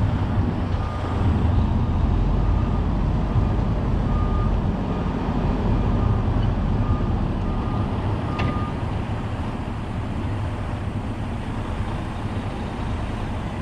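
Heavy diesel truck running with a backup alarm beeping at a steady pace for about eight seconds as the truck reverses, then the beeping stops while the engine keeps running. There is a single sharp click just before the beeping ends.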